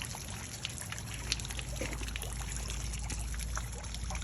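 Steady trickling of running water, with scattered faint ticks.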